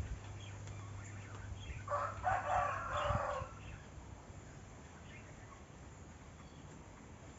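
A rooster crowing once, about two seconds in, for about a second and a half.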